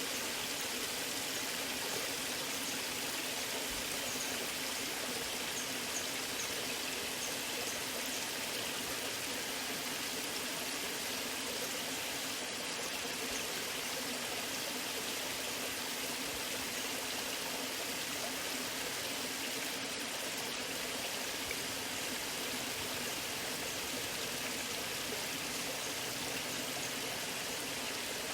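Waterfall water rushing and splashing steadily, an even hiss with no pauses and little deep rumble.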